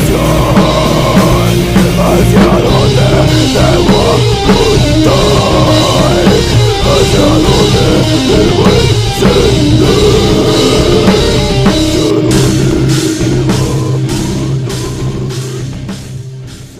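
Loud heavy rock music with a drum kit and guitar, fading out over the last few seconds.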